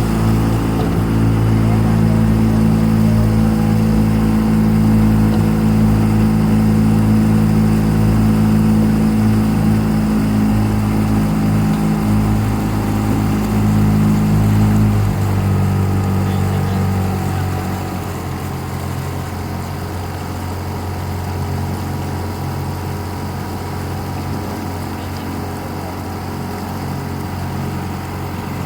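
Motorboat engine running steadily at speed, then throttled back about halfway through, dropping to a lower, quieter run.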